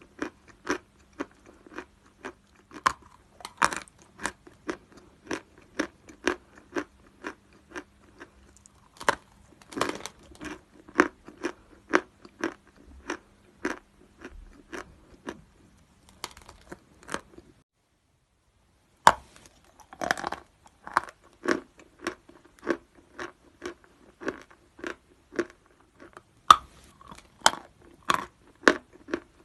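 Natural chalk being bitten and chewed close to the microphone, a run of sharp, dry crunches about two or three a second. The crunching stops for about a second and a half past the middle, then resumes with a loud bite, and there is another loud bite near the end.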